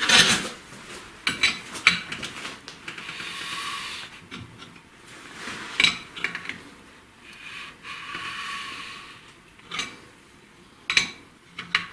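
Metal clinks and knocks of tools against a VAZ 2102 engine under rebuild. There are two longer ringing, scraping stretches about three and seven seconds in as the crankshaft is turned over by hand with the new pistons fitted and the cap nuts still loose.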